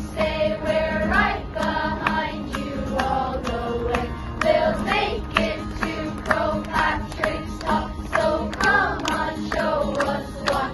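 Children's choir singing a wordless 'da-da-da' melody over backing music with a steady beat.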